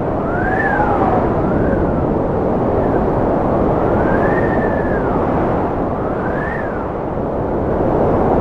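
Cold wind blowing hard: a steady, loud rush with several whistling tones that rise and fall in pitch, each lasting about a second.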